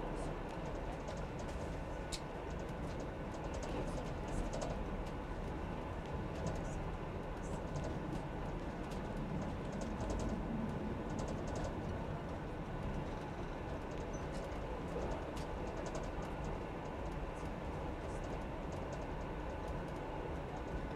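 Train heard from the driver's cab, running with a steady low rumble, with many small, irregular clicks and ticks over it.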